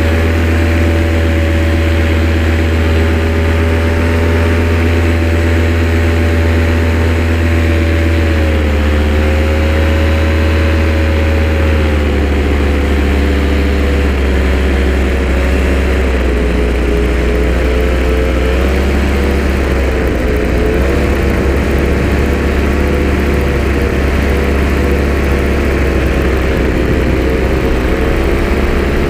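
An engine running steadily near idle, its pitch wavering and dipping slightly now and then.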